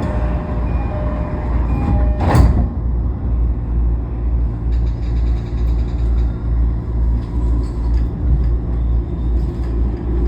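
Toei 10-300 series electric train running at speed, heard from inside the car: a steady, pulsing low rumble of the wheels on the rails, with a brief loud whoosh about two seconds in.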